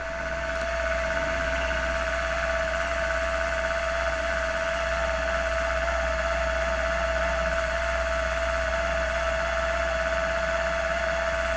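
Milling machine running steadily, an even whine over a low hum and hiss.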